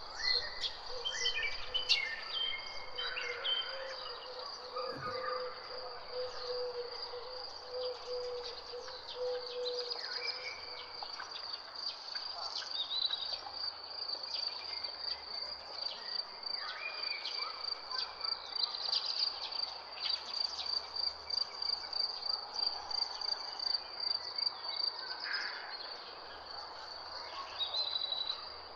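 A steady, high, finely pulsing insect trill, typical of a cricket, with many birds chirping and whistling in short calls over it.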